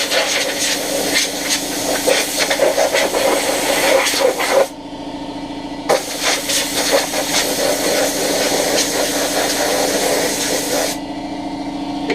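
Compressed-air blow gun blasting dust off a part: a long hissing blast, a break of about a second, then a second long blast that cuts off near the end. A steady machine hum runs underneath.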